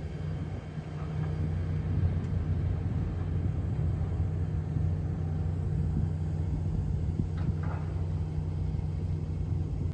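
Steady low mechanical rumble with a constant hum, like machinery running, with faint brief chirps about seven and a half seconds in.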